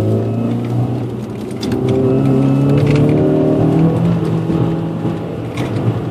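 A car's engine heard from inside the cabin during an autocross run. It climbs in pitch through the middle as the car accelerates, then levels off and eases back near the end.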